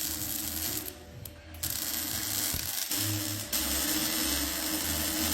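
Steady crackling hiss of workshop tools at work on a leaking exhaust, breaking off briefly about a second in and again near the middle.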